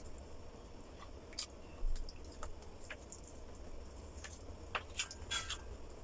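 Close-miked eating sounds: wet chewing and lip smacks as a scatter of short clicks, several in quick succession near the end, over a low steady hum.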